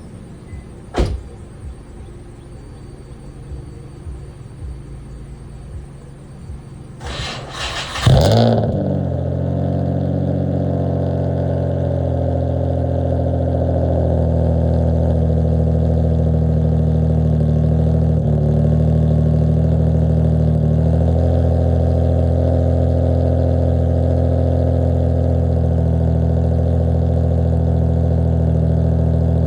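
Nissan VQ-series V6 cranking and catching about eight seconds in, then idling steadily, the idle settling a little higher a few seconds later. It is the first start after a cracked bank 1 VVT solenoid was replaced to cure a vacuum leak and misfire. A sharp click comes about a second in.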